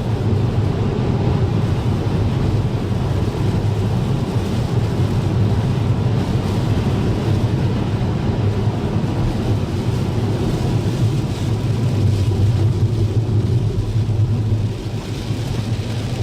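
Steady low rumble of a vehicle on the move, mixed with wind noise, dropping in level shortly before the end.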